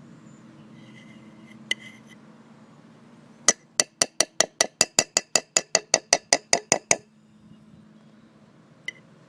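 A utensil tapped rapidly against a bowl, clinking about eighteen times at some five taps a second for roughly three and a half seconds, over a faint low hum.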